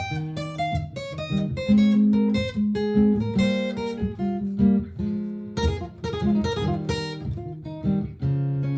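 Martin GPCPA4 acoustic-electric guitar played through a looper: quick picked single notes and strums over a looped part of held low notes, with no speech.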